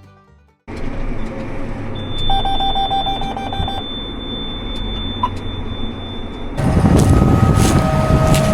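Tractor running under load, heard from inside the cab, with a steady high electronic tone and a quick string of alert beeps lasting about a second and a half. The engine noise steps up louder about six and a half seconds in.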